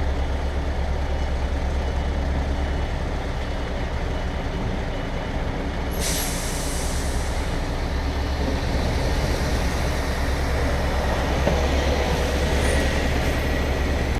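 Lorry diesel engine running steadily, with a sudden hiss of compressed air about six seconds in that fades over a second or two.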